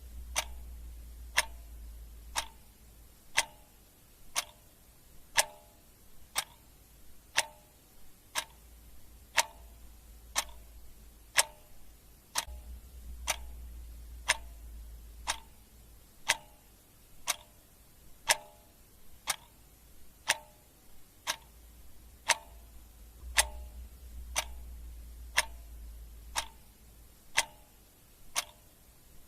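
Clock ticking steadily, about one tick a second, with the ticks alternating louder and softer in a tick-tock pattern.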